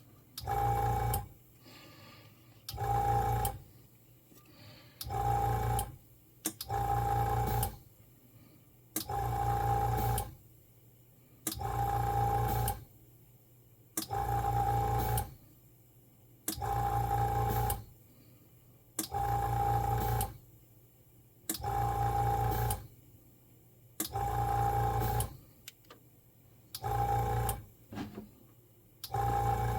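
Auto glue dispenser firing timed shots of air into a solder-paste syringe, each shot up to about a second long with a steady buzzing tone and hiss. The shots repeat about every two seconds, one for each through-hole being filled.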